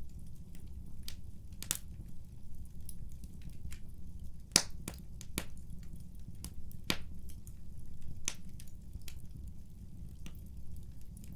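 Wood fire burning in a fireplace, with a steady low rumble of the flames and irregular sharp crackles and pops from the burning logs, the loudest pop about four and a half seconds in.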